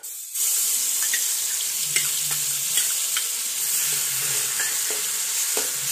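Ground garlic paste dropped into hot oil in a metal kadai and sizzling, the steady sizzle starting about half a second in, with a steel spoon tapping and scraping the pan now and then as it is stirred.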